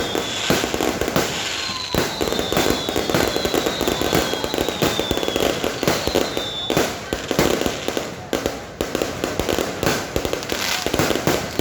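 A continuous barrage of fireworks and firecrackers: many sharp bangs and crackles in quick succession, with several long whistles that glide slowly down in pitch.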